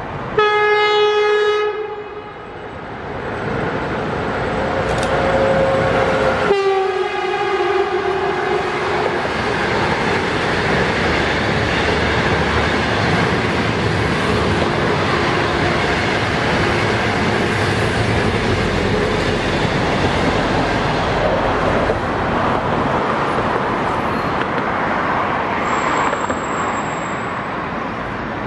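SS8 electric locomotive sounding its horn twice as it approaches: a short blast, then a longer one about six seconds later. After that comes the steady running noise of its passenger coaches passing on the rails.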